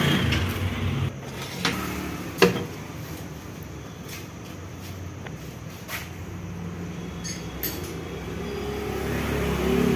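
A steady low rumble like a running vehicle engine, with a few sharp metallic knocks or clicks; the loudest knock comes about two and a half seconds in, and the rumble swells near the end.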